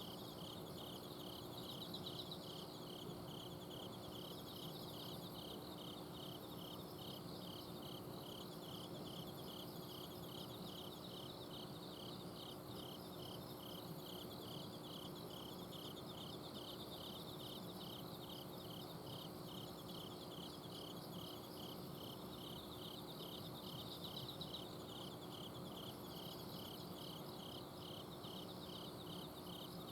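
A chorus of autumn crickets calling at night: one insect gives evenly paced, repeated chirps while others trill higher and continuously. Beneath them runs the faint, steady hum of an outdoor air-conditioner unit.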